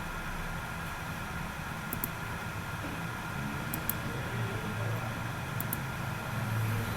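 Steady background hum and hiss, with faint short clicks in pairs about every two seconds.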